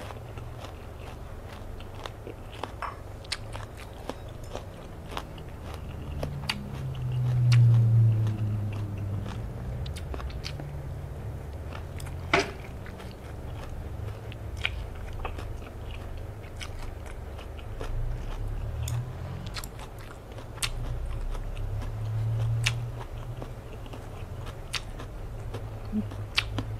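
Close-up eating sounds: biting and wet chewing of salmon and rice noodles, with many short irregular mouth clicks and the light click of chopsticks. A low hum-like sound swells about eight seconds in and is the loudest moment, with a smaller one near the end.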